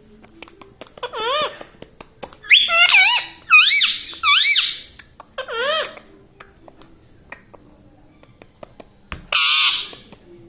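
Indian ringneck parakeet calling: five short calls with a quickly wavering pitch in the first six seconds, then one harsher, noisier screech near the end.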